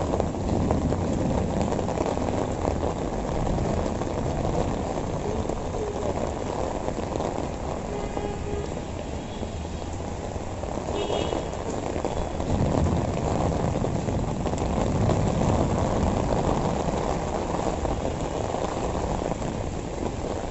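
Heavy rain pouring down onto a waterlogged street and pavement, a steady dense rush of noise.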